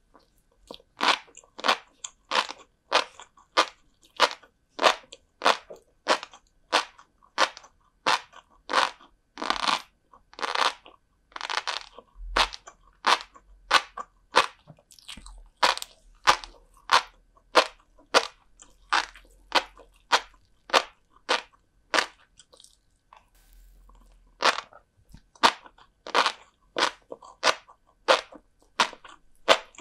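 Close-miked chewing of salt-cured herring roe (kazunoko): a crisp crunch with each chew, about one and a half a second, with a short pause about three quarters of the way through.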